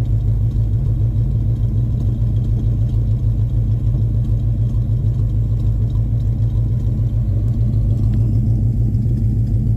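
2000 Ford Explorer's 5.0-litre 302 V8 engine running steadily with a deep, even rumble, no revving.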